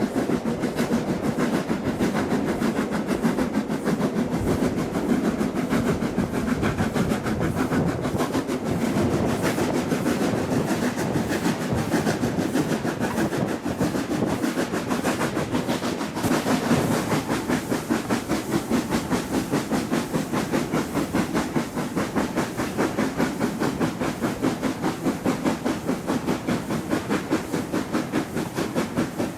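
Steam-hauled passenger train running along the line, its wheels beating out a steady rapid clickety-clack. A hiss of steam joins in about halfway through.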